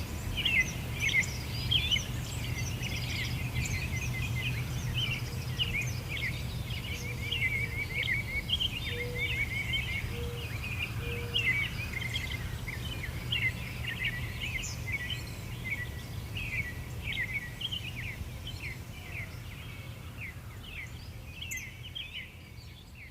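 Birds chirping and singing, with many short calls a second, over a steady low rumble; it fades out near the end.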